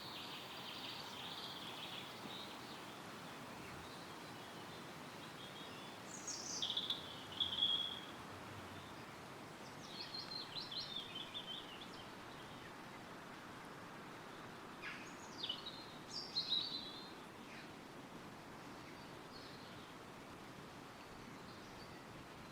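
Woodland ambience: wind rustling through the trees as a steady hiss, with songbirds singing several short, high chirping phrases, the loudest about a third of the way in and again past the middle.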